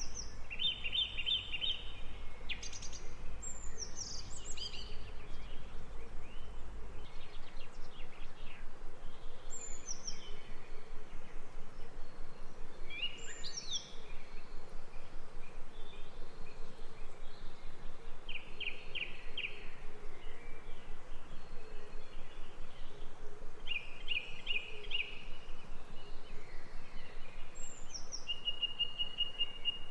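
Several songbirds calling over a steady background hiss: short rapid trills repeated every few seconds, and high whistles that slide downward. A low rumble underneath stops about seven seconds in.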